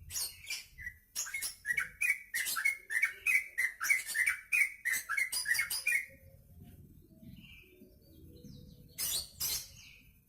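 Yellow-vented bulbul singing: a fast, chattering run of sharp notes lasting about six seconds, then a pause and two short notes near the end.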